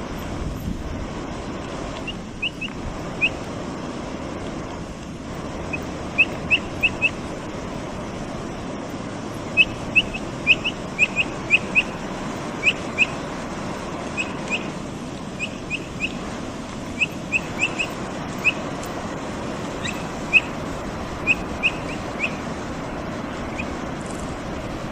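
Capybara peeping: short, high chirps, some alone and some in quick runs of two to five, over a steady rushing background.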